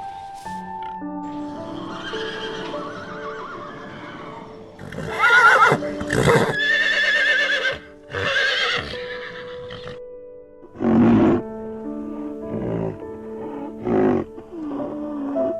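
Horse whinnying over soft background music: a run of loud, shaky neighs about five to nine seconds in, then shorter calls later.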